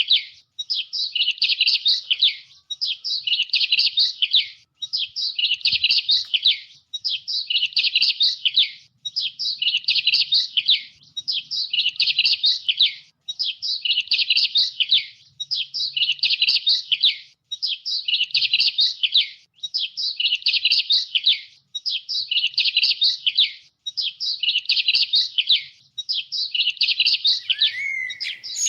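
Small songbird's rapid chittering chirps, in bursts of about a second and a half repeated every two seconds or so; a different, lower sliding call comes in near the end.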